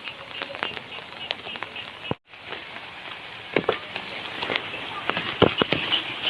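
Steady rain with many sharp drops striking a hard surface, the hits growing louder and closer together in the second half. The sound cuts out completely for a moment about two seconds in.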